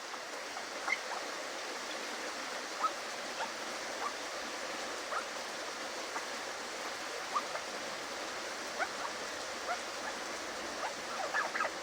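Steady rain falling, an even hiss with faint short ticks scattered through it.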